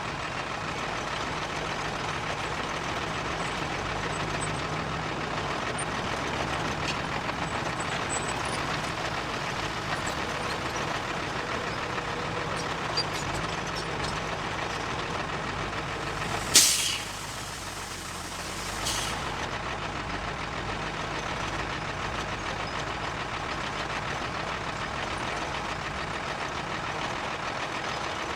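Heavy diesel machinery running steadily, with a sharp burst of air-brake hiss about two-thirds of the way in and a shorter, fainter hiss about two seconds later.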